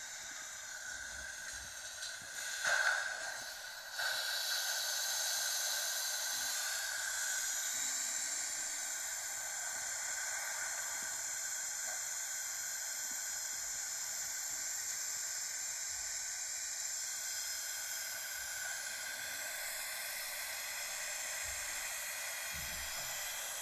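WashTec SoftCare Pro automatic car wash running: a steady hiss that grows louder about four seconds in and then holds level, with a brief louder burst just before that.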